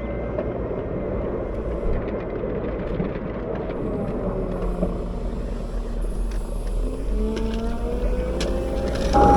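CAT 908 wheel loader's diesel engine running steadily while plowing snow, its pitch rising from about seven seconds in as it revs up. A louder burst of sound comes just before the end.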